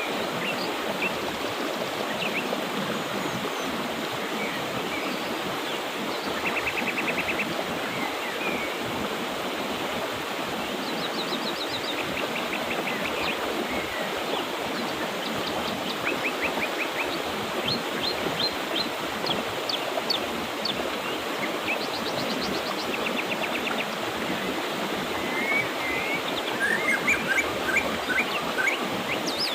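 Mountain river flowing steadily, with songbirds calling over it: several short, rapid trills and scattered chirps, busiest near the end.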